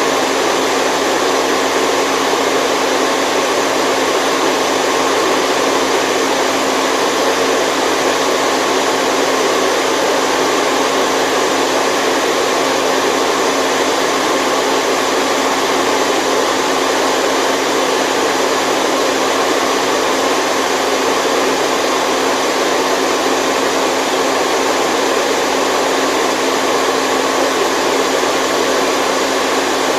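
Steady, unchanging white noise for baby sleep: an even hiss that sits in the middle and upper range with almost no bass, and no breaks or changes.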